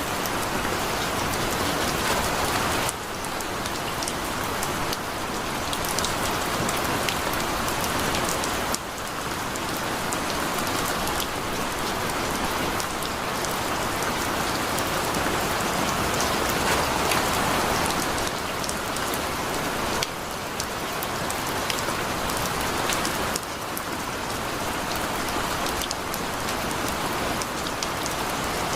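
Heavy rain falling steadily, a dense hiss with the ticks of single drops striking. The overall level drops suddenly a few times, near the start, about a third of the way in and again after two-thirds.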